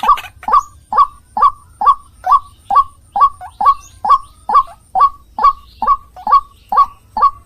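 White-breasted waterhen (ruak-ruak) calling: one short note repeated at an even pace, about two a second.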